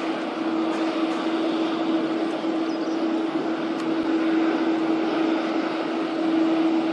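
Jet airliner engines running steadily: a constant roar with one unchanging hum, typical of the Airbus KC-30 tanker's turbofans idling or taxiing.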